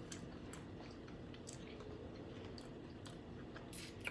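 Faint chewing and wet mouth clicks of someone eating a seafood boil coated in butter sauce, with scattered small smacks and a louder one near the end.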